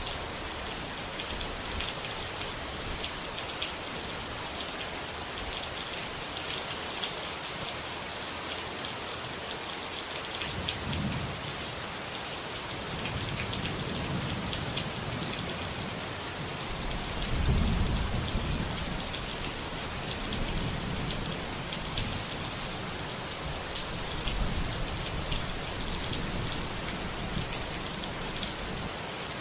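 Steady rain falling on a surface, with fine crackling drops. Thunder rumbles in about ten seconds in, swells to its loudest around the middle, then rolls on more softly before dying away near the end.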